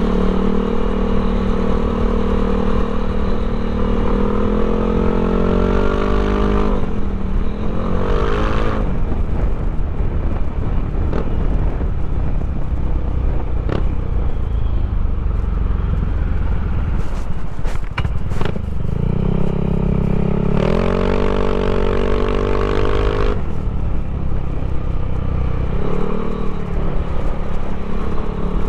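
Yamaha Aerox scooter engine, bored and stroked to 200cc, running and being revved. The pitch rises in a rev twice, first from about four seconds in and again past twenty seconds, with a short blip near the end. Between the revs it runs low and rough with some clatter.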